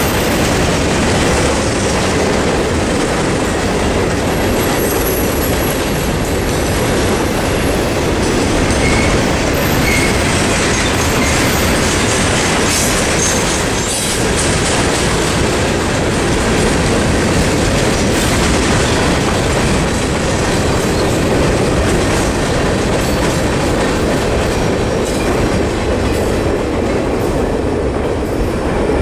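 Freight train's boxcars and covered hoppers rolling through a level crossing: a steady, loud rumble and clatter of steel wheels on the rails.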